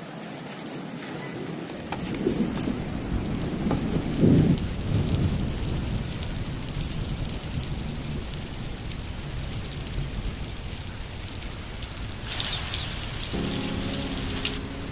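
Steady rain falling, with a long rumble of thunder that swells about two seconds in and peaks around four seconds in before fading into the rain.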